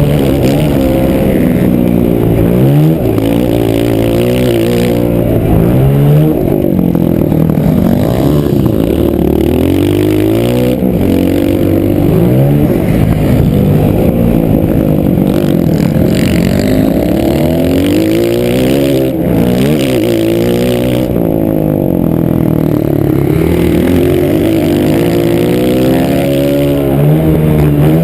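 Motocross bike engine revving hard and dropping back again and again, rising in pitch on each run of throttle and falling off between, heard close up from an onboard GoPro.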